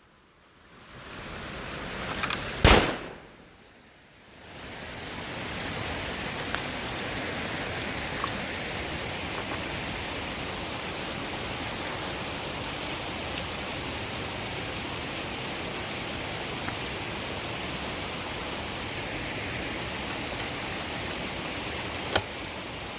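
A single sharp rifle shot about three seconds in, with a smaller crack just before it, then a steady even hiss.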